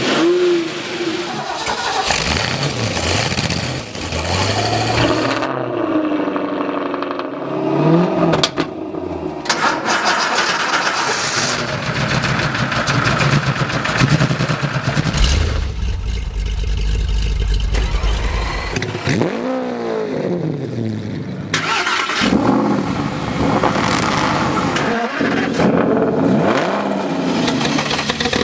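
Car engines revving again and again, the pitch sweeping up and falling back, with abrupt changes from one engine sound to another and a deep low rumble for a few seconds around the middle.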